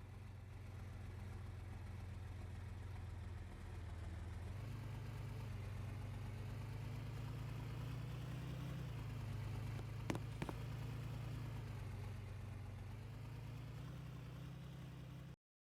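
A vehicle engine running steadily, its pitch stepping up about four and a half seconds in and shifting again near nine seconds. Two sharp clicks about ten seconds in.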